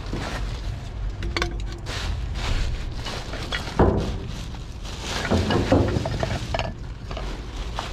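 Hard objects clattering and clinking as they are rummaged through and knocked together, over a low steady rumble. One louder knock comes about four seconds in, and a run of clatter follows a second or two later.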